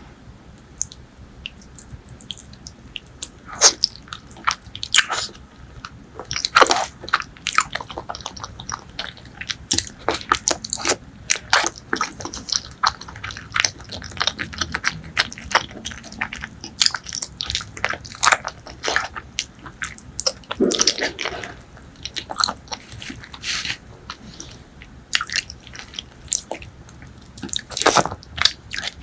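Close-miked eating sounds of spicy pork leg curry with white rice being bitten and chewed: many short, irregular mouth clicks, in quick clusters.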